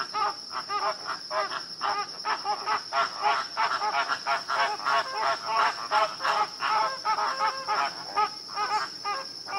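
Many short animal calls, several a second and overlapping, as from a group of animals, over a steady high-pitched whine.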